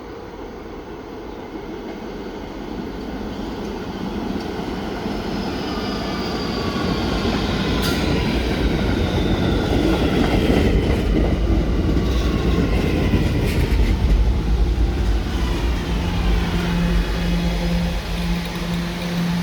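Staten Island Railway electric subway train pulling into a station. Its rumble grows louder for about fourteen seconds while several whining tones from the motors fall in pitch as it brakes. A steady hum comes in near the end as the train slows to a stand.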